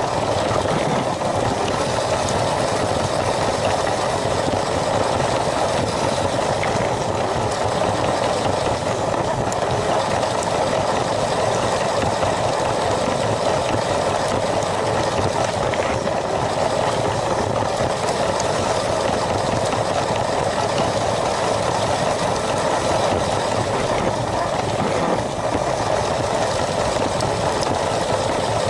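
LEGO train's electric motor and plastic wheels running steadily along the track, a constant mechanical noise with no change in speed.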